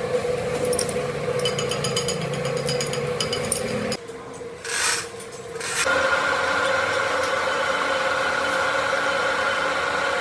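Metal-working machine running with a steady hum, with scraping and light ticking. It drops away abruptly about four seconds in, then after a short burst of noise a different steady machine hum starts near six seconds.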